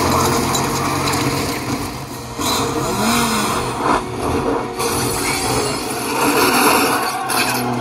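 Action-film soundtrack of a vehicle chase: a dense mix of engines and sound effects, with a few sharp knocks about four seconds in, played back through a JBL Bar 5.1 soundbar.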